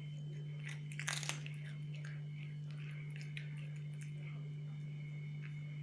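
A cat crunching and chewing dry treats: a loud crunch about a second in, then small scattered crunches. A steady low hum runs underneath.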